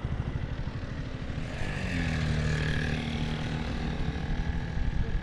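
Motorcycle engine running with a steady, fast low pulsing. Partway through, a second steady engine hum joins for a couple of seconds.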